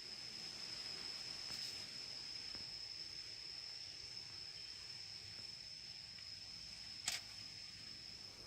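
A steady high-pitched insect call, a single unbroken tone, with one sharp click about seven seconds in.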